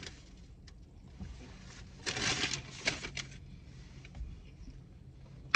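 Faint chewing and mouth sounds of someone eating a sandwich, with a louder stretch of mouth noise about two seconds in, over a faint steady low hum.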